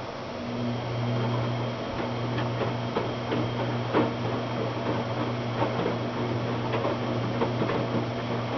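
Washing machine motor running with a steady low hum that starts about half a second in, with scattered light knocks from the turning drum.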